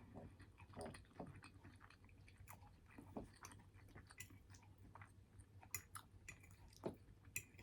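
Faint chewing of a mouthful of butter chicken rice bowl, with soft, irregular wet mouth clicks and smacks.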